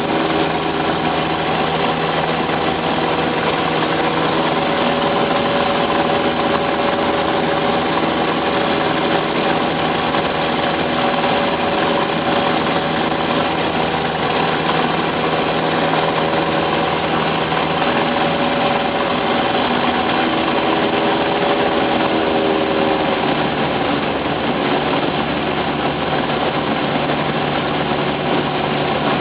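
Cessna 172's piston engine and propeller droning steadily in flight. The engine note shifts slightly about three-quarters of the way through.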